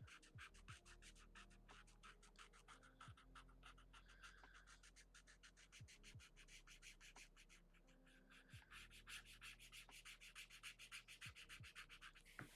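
An ink pen scratching quickly back and forth on paper, filling in a solid area of a drawing, about six short strokes a second, stronger in the last few seconds.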